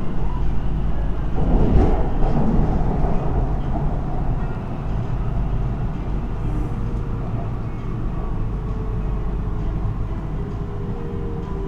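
MRT Kajang Line train running, heard from the front cab: a steady low rumble with a louder noisy surge about a second and a half in. Faint steady tones come in near the end.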